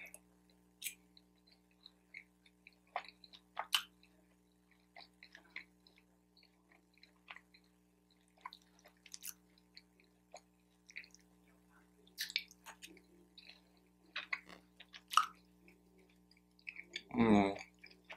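Close-miked chewing of General Tso's chicken: scattered wet mouth clicks and smacks. A short hum of the voice comes near the end.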